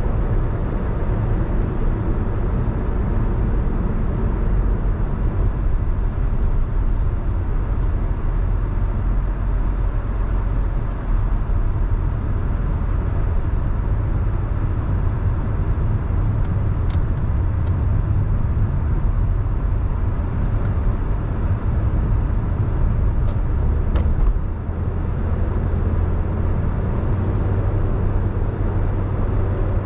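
Car driving on a wet road in the rain: a steady low rumble of engine and road noise with tyre hiss. A few faint clicks come in the second half.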